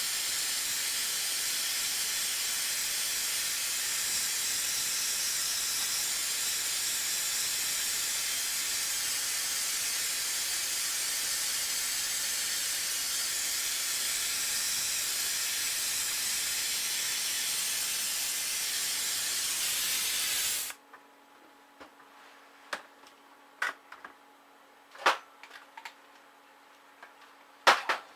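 A loud, steady hiss that cuts off abruptly about 21 seconds in. Then a faint low hum with several light clicks and knocks.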